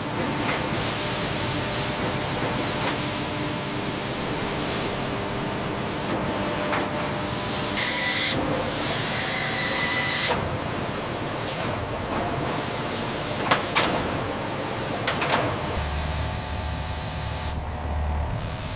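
Factory machinery noise dominated by a loud hissing, like air or spray, that changes abruptly every few seconds, with a couple of sharp clicks late on and a low hum near the end.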